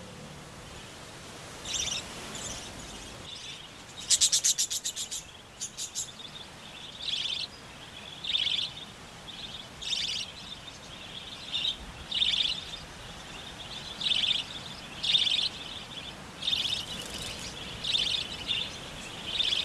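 Wild budgerigars chirping, short calls repeating about once a second, with a fast rattling run of clicks about four seconds in. These are parents calling their young to leave the nest hollow.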